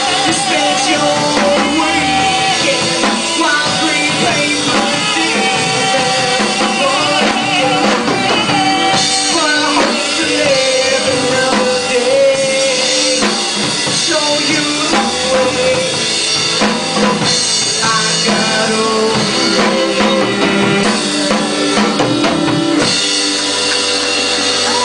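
Live band playing a song: drum kit beating under a sustained, wavering melody line, with bass that drops away near the end.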